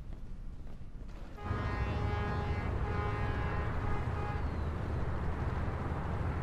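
Quiet room tone with a few faint ticks, then, about a second and a half in, a steady low rumble comes in suddenly, under sustained background music chords.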